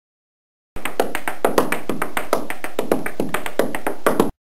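A quick, fairly even series of sharp taps or clicks, several a second, that starts abruptly and cuts off abruptly.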